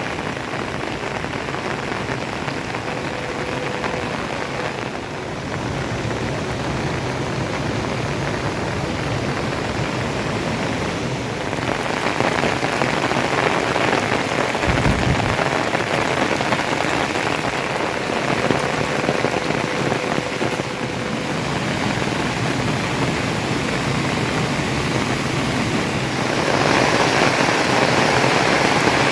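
Steady heavy rain falling and pattering on surfaces. It grows heavier about twelve seconds in and again near the end, with a brief low thump about halfway through.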